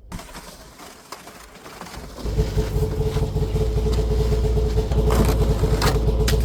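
Two-stroke Arctic Cat snowmobile engine running at a steady speed. It comes in loud and steady about two seconds in, after a quieter stretch.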